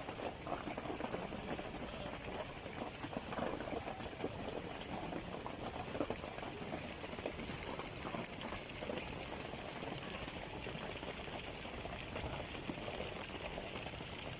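Thunderstorm rain falling steadily on a street: a dense, even patter of drops.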